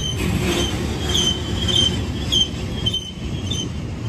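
BNSF freight train rolling past: a steady rumble of wheels on rail, with short high wheel squeals repeating about every half second.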